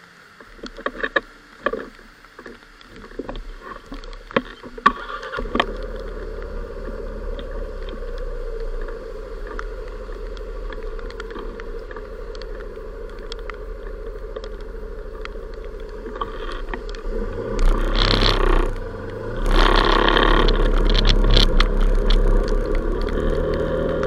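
Motorcycle sound picked up by an action camera's built-in microphone. Scattered clicks and knocks come first, then a steady engine hum begins about five seconds in, and two louder rushes of noise come near the end.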